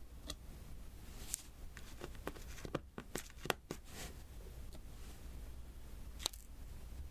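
Diamond painting pen pressing resin drills onto a sticky adhesive canvas: scattered light taps and clicks at an uneven pace, with a sharper click a little past the middle and another near the end.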